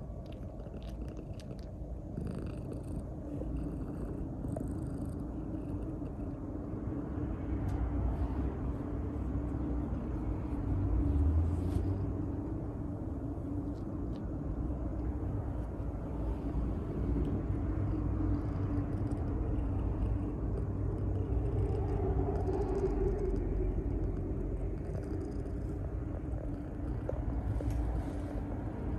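Maine Coon cat purring steadily and close up, a continuous low rumble, while it kneads contentedly.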